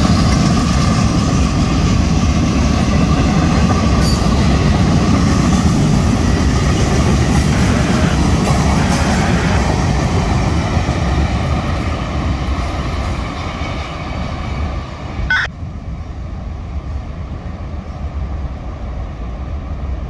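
Florida East Coast Railway freight train rolling past with a steady heavy rumble of wheels on rail, easing off in the second half. A single sharp click comes about fifteen seconds in, and after it the rumble is quieter.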